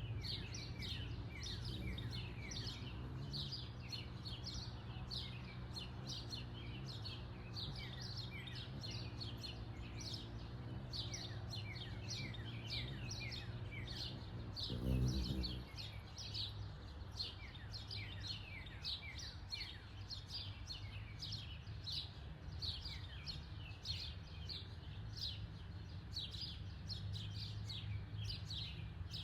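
Wild birds chirping continuously: quick falling chirps, several a second, over a steady low hum. A brief low rumble comes about halfway through.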